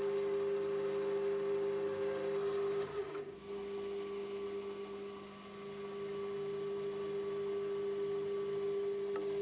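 Metal lathe running with a steady whine while a 5/16-18 tap is run into the end of a steel shaft from a tailstock tap holder. A single sharp click comes about three seconds in.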